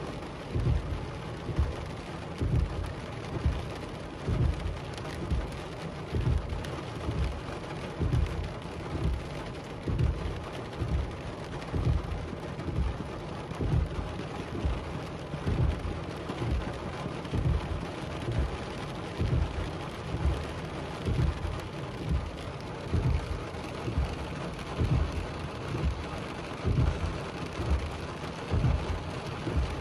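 Heavy rain drumming on a car's roof and windshield, heard from inside the closed car, with a steady hiss and dull low thuds of big drops a couple of times a second.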